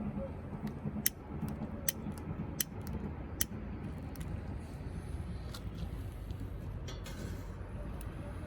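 A series of sharp clicks, four loud ones less than a second apart in the first half and fainter ones after, over a steady low rumble.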